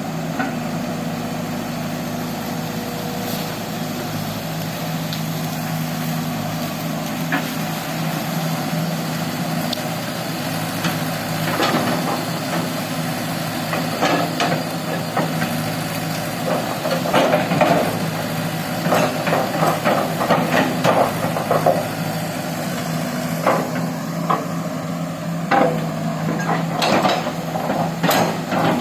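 Excavator's diesel engine running steadily, with bursts of sharp knocking and clattering from the machine's work that come in clusters, thickest in the second half.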